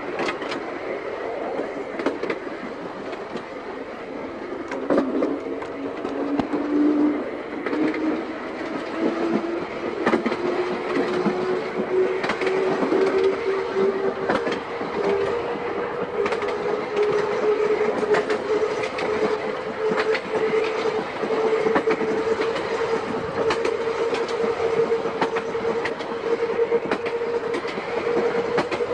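Seaton Tramway narrow-gauge electric tram running along the line. A whine rises in pitch from about five seconds in as the tram gathers speed, then holds steady, while the wheels click over the rail joints.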